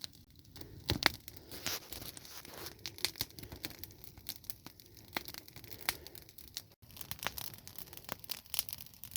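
A freshly lit log-crib campfire of willow wood burning fiercely. It crackles with irregular sharp pops and snaps.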